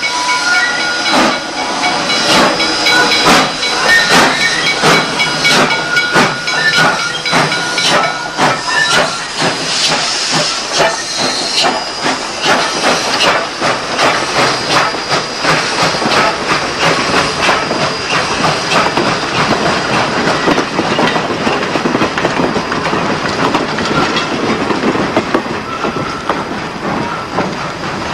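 Steam locomotive working hard: a fast run of exhaust chuffs over steam hiss and running-gear clatter, with steady high tones through the first ten seconds or so that then fade away.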